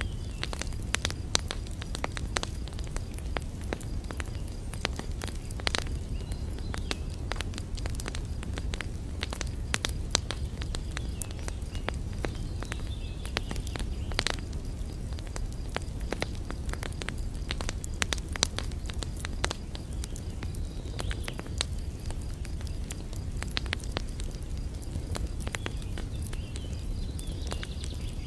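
Irregular crackling and clicking, many sharp snaps at uneven intervals, over a steady low rumble.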